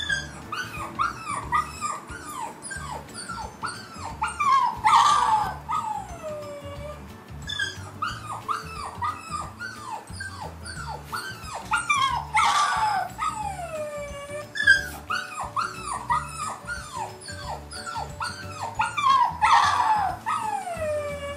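Recorded dog whimpers and yips played from a phone dog-sound prank app: a run of short falling yelps, then a louder harsh cry and a long falling whine. The same sequence loops about every seven seconds, three times.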